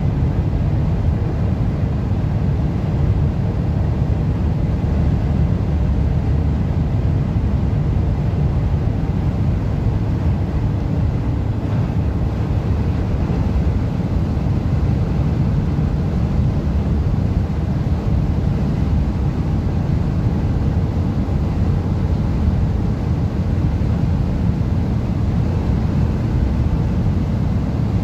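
Steady low-pitched road and wind noise of a car driving at speed through a strong sandstorm wind.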